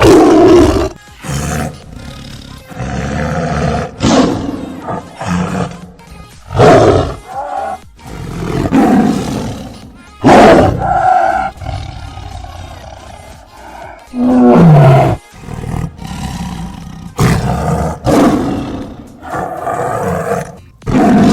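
Loud wild-animal roaring: a string of harsh roars, each about a second long, with short pauses between them.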